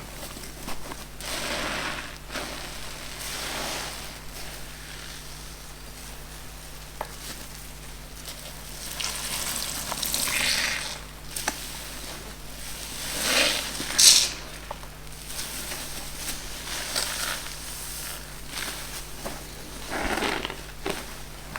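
Car-wash sponges squeezed by hand, each squeeze a crackling hiss, coming in irregular swells a few seconds apart, the loudest about 14 seconds in.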